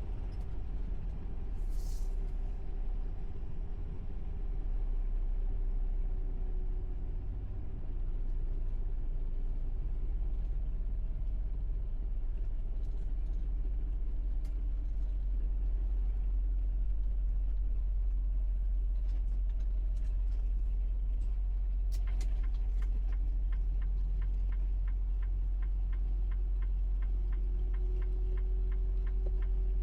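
Steady low rumble of a semi-truck's engine and road noise heard inside the cab while driving, with a short hiss about two seconds in. Near the end a turn signal starts clicking in a regular rhythm.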